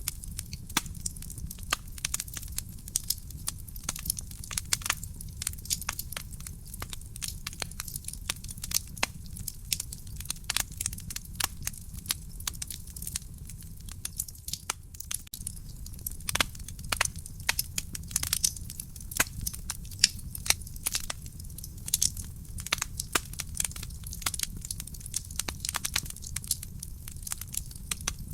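Wood fire burning in a fireplace: a dense, irregular crackle of sharp pops and snaps over a steady low rumble of the flames.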